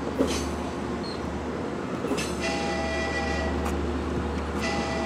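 Long Island Rail Road diesel push-pull train, bilevel cab car leading, pulling slowly into the station with a steady low rumble. A steady high-pitched squeal of several tones joins about two seconds in and stops, then comes back near the end.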